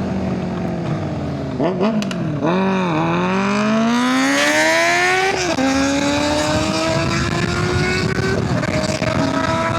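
Triumph Bonneville's parallel-twin engine accelerating hard through the gears, with wind rushing past. The revs climb steadily and drop at each shift, about two seconds in, around five and a half seconds in and near the end. The rider missed a gear during this run.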